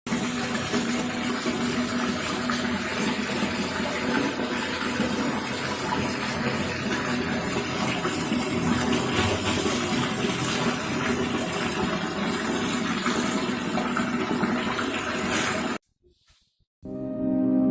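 Homemade DC-motor water pump running with a steady hum while water gushes and splashes from it. The sound cuts off suddenly, and after about a second of silence music begins near the end.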